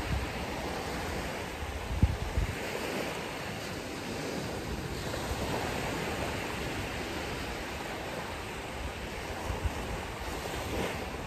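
Ocean surf washing on a beach, a steady rushing noise, with wind buffeting the microphone in short low bumps about two seconds in and again near the end.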